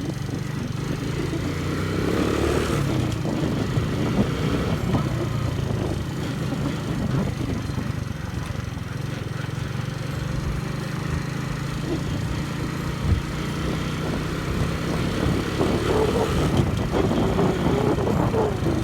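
Alpha Forte 125 motorcycle's 125 cc engine running steadily while riding, with wind rush over the microphone.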